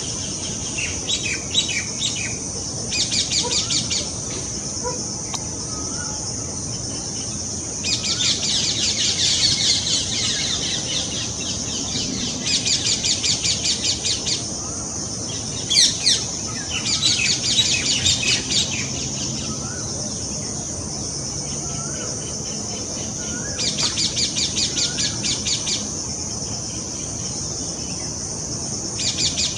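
Hungry parrot chick begging: about six bursts of rapid, harsh repeated calls, each a second or two long, over a steady high-pitched buzz.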